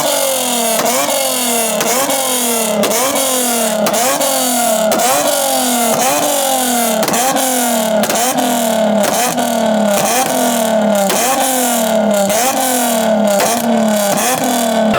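Car engine on a two-step launch limiter, revved hard in repeated throttle stabs about once a second, with a steady crackle of exhaust pops over the engine note.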